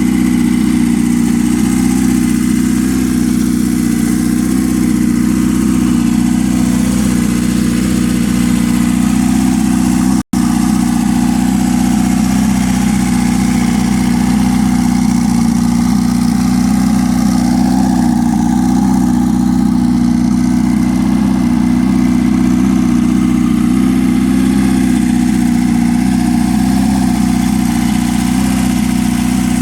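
Turbocharged, 830cc big-bore Kawasaki KZ650 air-cooled inline-four idling steadily. The sound cuts out for an instant about ten seconds in.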